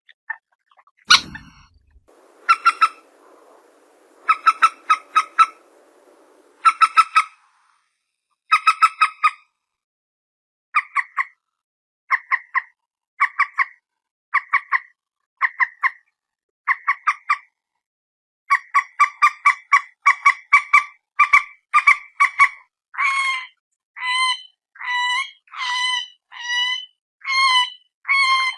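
Mandar batu (common moorhen) calling: short clucking notes in clusters of two to four, repeated about once a second. About two-thirds of the way through they quicken into a steady run, then turn into longer, bending notes. A single sharp knock sounds about a second in.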